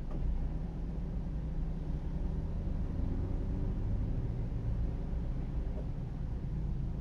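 A car driving along a road: a steady, low rumble of engine and tyre noise.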